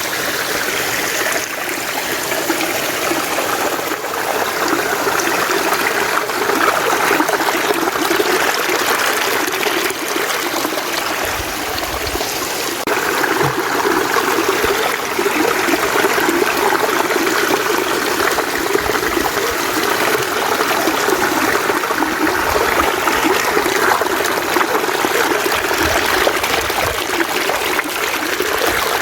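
Mountain stream flowing: a steady, unbroken rush of running water.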